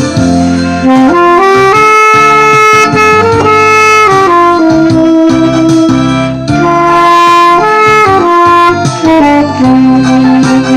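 A saxophone plays a slow melody of long held notes that step up and down, over a backing accompaniment.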